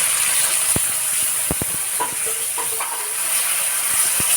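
Meat for crispy kare-kare frying in hot oil: a steady sizzle with a few sharp pops scattered through it.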